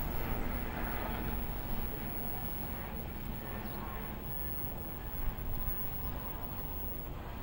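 Commuter train running past and moving away: a steady rumble and rail noise that slowly fades.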